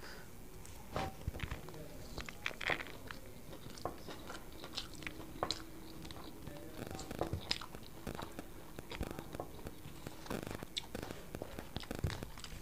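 A man eating rice with his fingers: soft, irregular chewing and lip-smacking clicks as he eats lemon rice mixed with cabbage palya, with the faint sound of fingers working the rice on a banana leaf.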